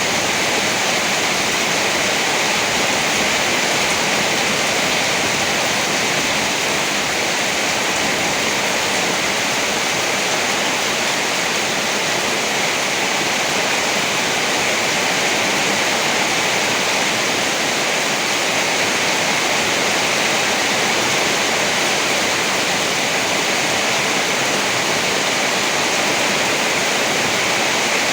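Steady rain falling, an even, dense hiss that does not let up, with no thunderclaps.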